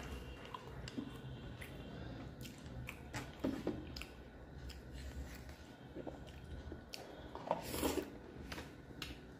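Close-miked eating of rice and fish curry by hand: chewing and mouth smacks, with the soft squish of fingers working the rice. A few louder smacks stand out, about three and a half seconds in and again near eight seconds.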